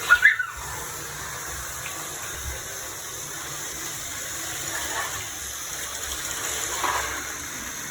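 Several battery-powered Thomas & Friends toy trains running at once on plastic track: a steady whirring, rattling mix of small motors and wheels, with a couple of brief sharper sounds right at the start.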